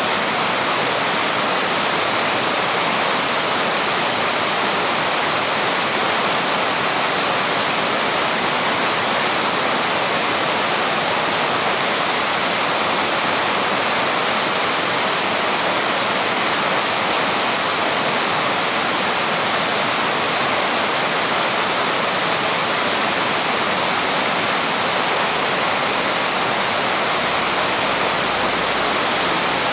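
Waterfall: steady, loud rushing of falling water with no breaks.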